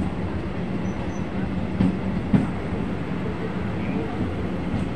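Passenger train running along the track, heard from aboard: a steady rumble with a few sharp clicks, two of them close together about two seconds in.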